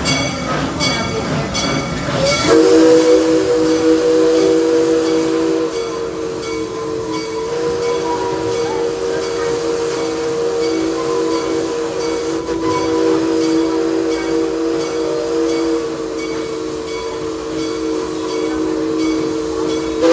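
Train running with a regular clicking beat. About two and a half seconds in, the locomotive's chime whistle starts, a steady chord of several tones blown in one long blast that cuts off sharply at the end.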